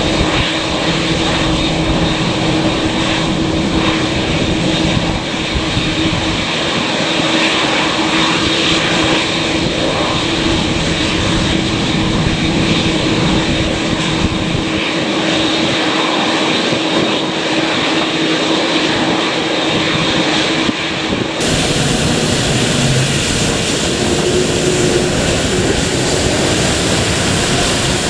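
Airliner engines running loud and steady at close range as the aircraft departs. The sound changes abruptly about 21 seconds in.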